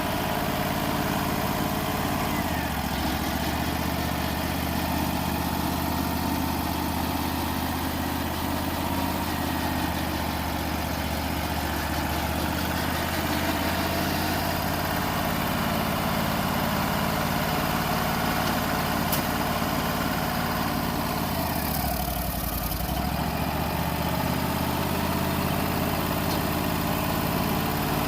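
Wood-Mizer LT35 portable sawmill's engine running steadily, its low note shifting briefly about three quarters of the way through.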